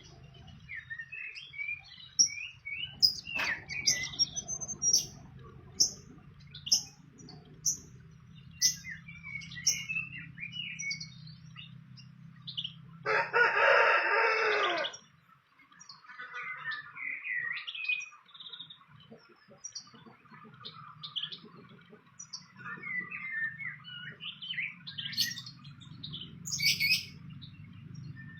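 Small birds chirping in many short, high, quick calls and trills. About halfway through there is a louder, harsher call lasting about two seconds.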